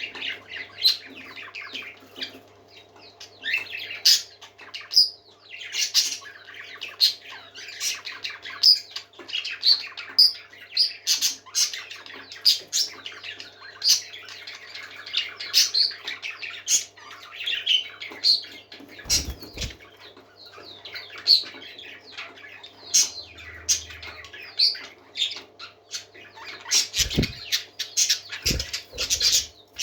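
Several parakeets chirping and chattering without a break, with sharp squawks mixed in, over a faint steady hum. A few brief low thumps come in the second half.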